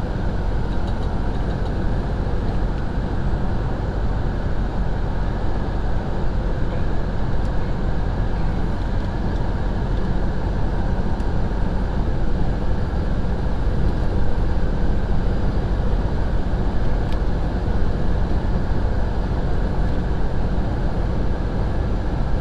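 Semi truck on the move at highway speed: a steady low engine drone mixed with road and tyre noise, unchanging throughout.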